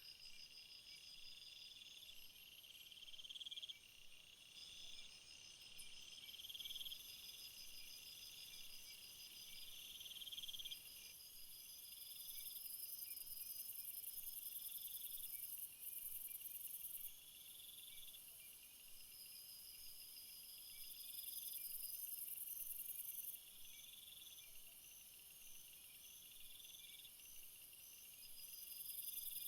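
Faint chorus of summer field insects chirping in repeated short trills, overlaid by a very high-pitched hiss that swells and fades every few seconds.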